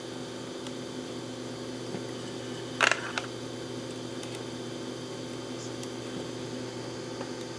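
A brief sharp clatter of hard parts or a tool knocking together, with a smaller click just after it, about three seconds in, over a steady room hum.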